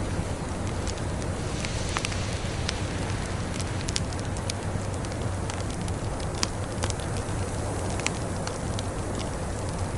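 Wood fire crackling, with scattered sharp pops every fraction of a second to a second, over a steady low rushing noise of blizzard wind.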